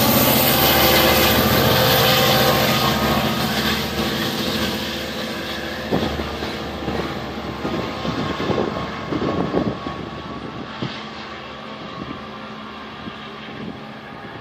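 Long Island Rail Road diesel train going by, its engine loud at first and fading steadily as it moves away, with a run of sharp clicks and clatters from the wheels on the rails partway through.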